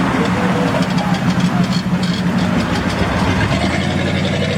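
Classic car engine idling close by, a steady low running note.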